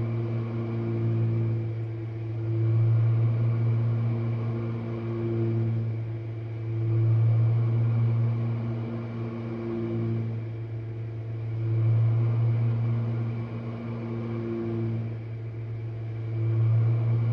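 Jenn-Air dishwasher running a wash cycle: a steady low hum that swells louder and fades back about every four to five seconds.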